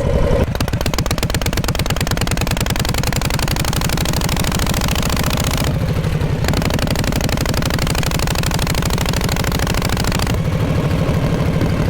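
Exhaust of a 1948 Harley-Davidson Panhead V-twin running, a steady train of evenly spaced firing pulses. Its note changes briefly about six seconds in and again after about ten seconds.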